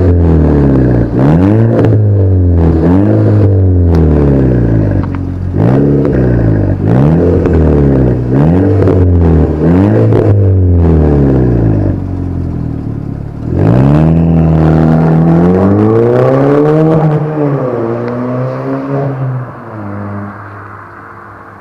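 Skoda Octavia vRS 2.0 TFSI turbo four-cylinder with a decat 3-inch downpipe and free-flowing 2.5-inch rear exhaust, revved hard in short repeated blips about once a second. Near the middle it rises in one longer, slower climb and drop, then fades out.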